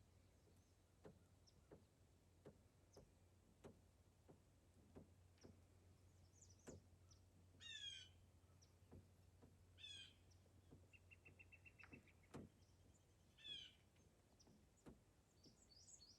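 Faint bird calls: three short calls a few seconds apart, with a brief rapid trill between them and soft ticks scattered throughout.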